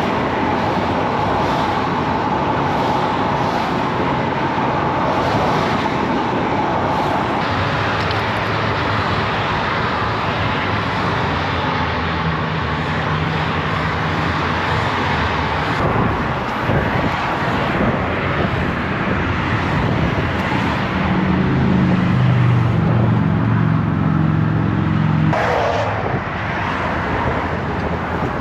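A car running, with steady engine and road noise throughout; a deeper engine note comes up about a third of the way in and again stronger near the end, shifting in pitch.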